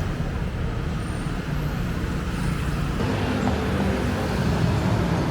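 Road traffic: motor vehicle engines running in a steady low rumble, growing a little louder about three seconds in.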